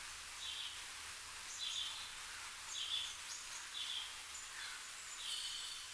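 Short, high bird chirps repeating about once a second, with a steady hiss behind them.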